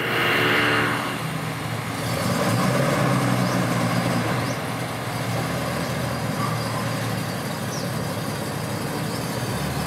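Nissan Skyline C110 'Kenmeri' engine running, swelling up twice in the first few seconds as the throttle is pressed, then settling to a steady idle.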